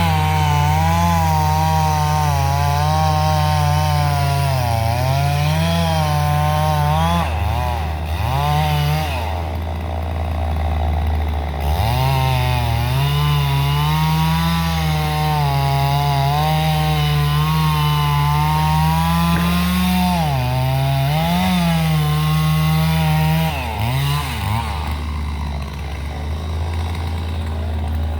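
An engine running hard, its pitch dipping and climbing back every few seconds as the load comes and goes, over a steady low rumble.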